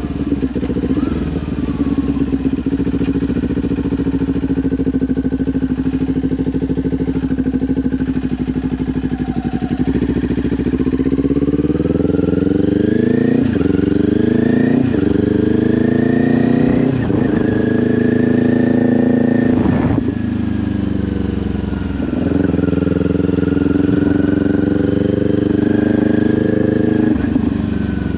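Kawasaki Ninja 400's parallel-twin engine through an SC-Project exhaust, running at a steady note for about ten seconds. It then accelerates, its pitch climbing and dropping sharply several times as it shifts up through the gears, and later holds a steadier note with another drop near the end.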